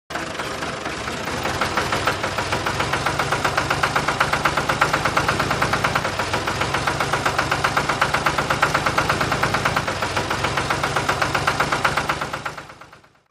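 Mini diesel engine running with a fast, even chugging beat, fading out near the end.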